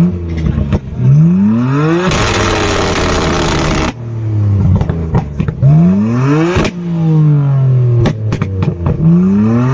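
Sports car engine being revved hard, again and again, its pitch climbing with each rev and falling back. About two seconds in there is a loud rushing stretch of roughly two seconds, and around eight seconds a quick run of sharp exhaust pops.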